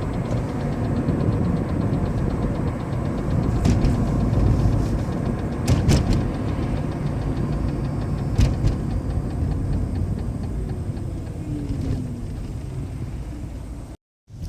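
Toyota Prius (20-series) driving, with road noise in the cabin and a faint, rapid, rhythmic ticking or knocking that keeps pace with road speed, plus a few sharper clicks. This unexplained knock appeared after driving over deep potholes on a rough road.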